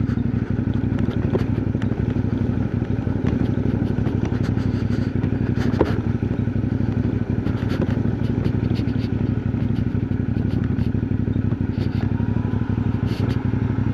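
Motorcycle engine running steadily at an even pitch, with no change through the stretch.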